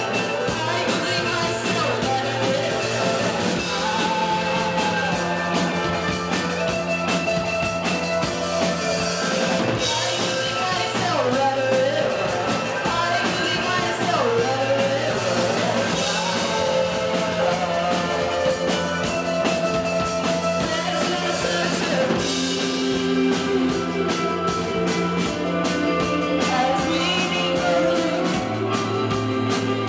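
Live rock band playing a song with a sung vocal, electric guitars, bass and drum kit.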